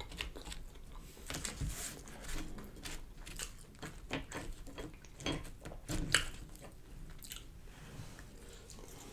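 Close-up chewing and biting of fried catfish and fries: soft, irregular crunches and mouth clicks.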